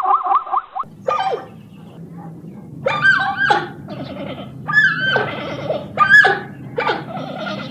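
Dog barking and yelping: about seven high calls, each sliding down in pitch, at uneven intervals over a steady low hum. A rapid run of small squeaks cuts off just under a second in.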